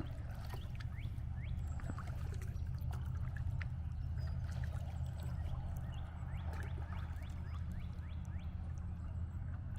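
Kayak being paddled through still water: water trickling and dripping off the paddle blades in many small plinks, over a steady low rumble.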